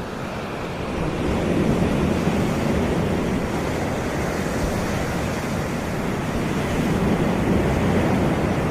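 Caribbean surf breaking on a sandy beach: a steady wash of waves that swells twice, once about two seconds in and again near the end.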